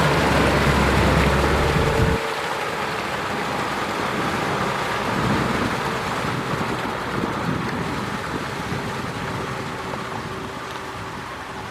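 Kubota M6040SU tractor's diesel engine running loud and steady, then dropping away abruptly about two seconds in. After that comes a rushing hiss with a faint engine hum, slowly fading.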